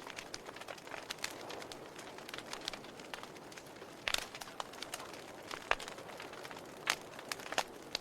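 Wood fire crackling: irregular sharp pops and snaps over a steady soft hiss, with the loudest pops about halfway through and near the end.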